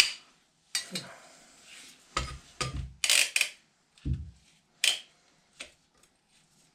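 Metal hand tools being handled: a string of sharp metallic clinks and knocks with a few dull thumps, as a large pipe cutter is passed over and set in place, thinning out near the end.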